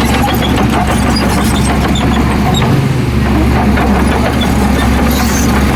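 Heavy earthmoving machine's diesel engine running steadily with a low rumble.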